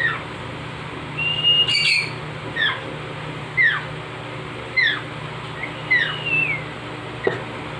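Baby parrot food-begging calls: a short falling chirp about once a second, with two longer whistled calls that hold a pitch and then drop, over a steady low hum.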